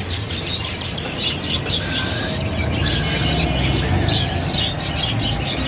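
Cockatiels chirping in quick, short, repeated calls, with a low hum underneath in the second half.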